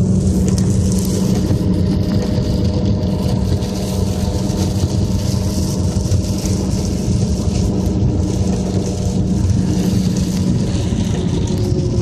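Inside a car driving on a rain-soaked road: steady engine and tyre rumble, with a hiss of rain and spray on the car over it.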